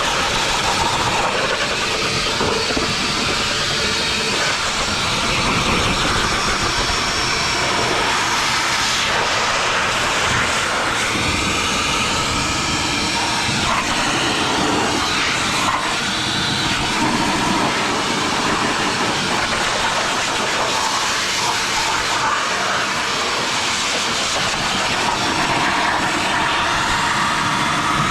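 Vacuum cleaner running steadily with a loud rushing motor noise while it vacuums dirt off a mower engine.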